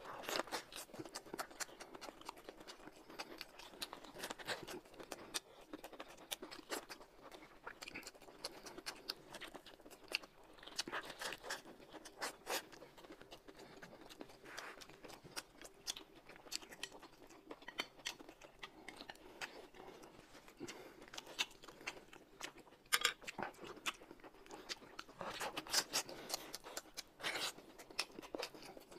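Close-up chewing and biting by two people eating thin flatbread wraps filled with crisp shredded vegetables: irregular wet smacks and soft crunches, with a few louder bites about three quarters of the way through.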